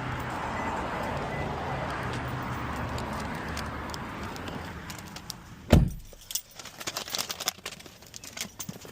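Steady outdoor rumble with a low hum, then a car door shutting with a heavy thump just before six seconds in, after which it goes quieter and keys jangle and clink.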